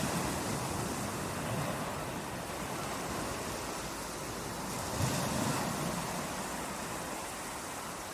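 Sea waves washing onto a beach, a steady rush of surf with a low rumble that swells about five seconds in, with wind buffeting the microphone.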